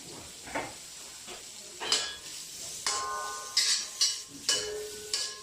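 Fatty pork sizzling in a hot wok, with a steady hiss, while a metal spatula scrapes and knocks against the pan: a handful of sharp clanks, several leaving a brief metallic ring.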